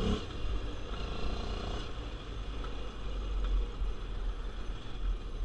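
A vehicle's engine running with a steady low rumble as it is driven and slid around on wet ground while drifting.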